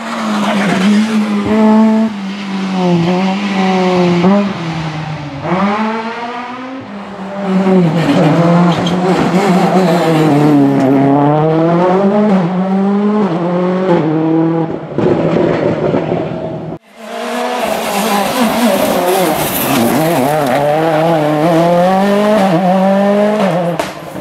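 Rally car engines at full race pace on a special stage, the pitch rising and dropping again and again through gear changes, lifts and braking. A sudden cut about 17 seconds in switches to another car at high revs.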